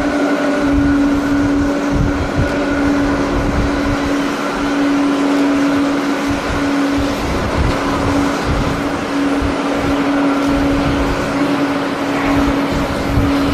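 Jet airliner engine noise with a steady low hum, mixed with strong wind buffeting the microphone in irregular low gusts.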